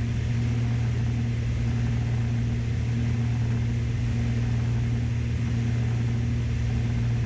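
Steady drone of a Beechcraft Baron B55's twin piston engines heard inside the cockpit on final approach: a constant low hum with a steady higher tone above it and even noise over the top.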